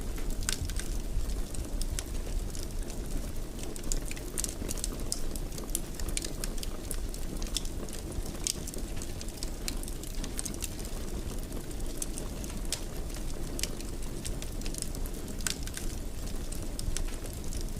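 Wood fire in a fireplace crackling, with a steady low rumble of the flames and many irregular sharp pops and snaps.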